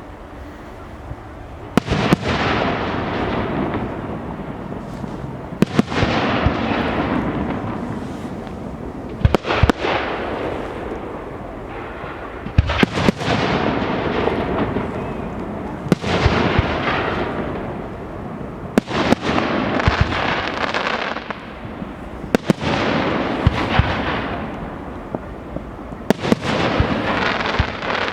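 Fireworks display: about eight sharp bangs, roughly one every three to four seconds, each followed by a couple of seconds of hissing noise that fades away.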